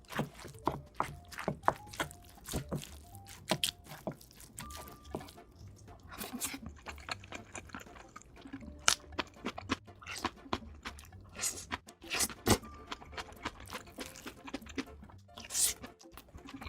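Close-miked eating of rice and egg soup: many sharp clicks, some leaving a short ringing tone, among chewing and liquid sounds.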